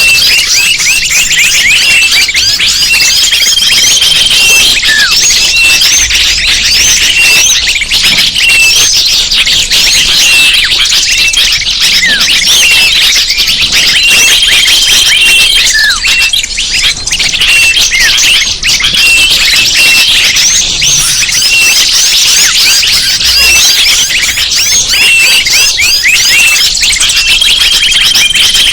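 Bird-lure recording: a dense chorus of many small birds chirping and twittering at once, loud and continuous. A short, steady, high whistled note repeats about every twelve seconds, as if the recording loops.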